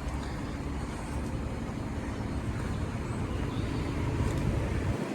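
Steady low rumble of a Cat 730C articulated dump truck's diesel engine idling; it cuts off abruptly just before the end.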